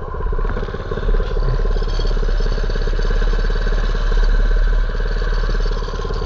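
Mini bike's small engine running steadily, its rapid firing pulses even throughout.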